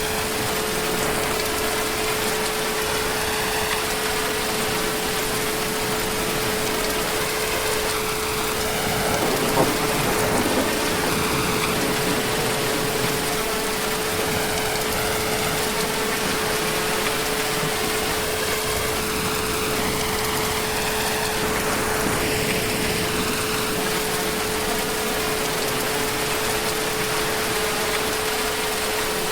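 Heavy rain falling steadily, an even hiss of drops, with a steady hum running under it and a brief swell about ten seconds in.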